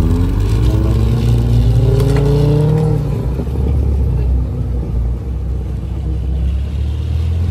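A car's engine accelerating, its note climbing steadily for about three seconds and then dropping away, over a deep steady rumble.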